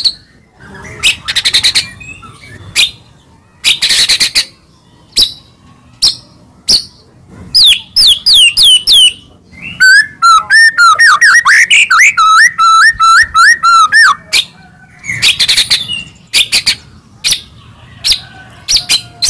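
White-rumped shama (murai batu) singing: bursts of harsh rapid rattling notes, a few quick falling whistles, and a fast run of varied whistled phrases lasting about four seconds.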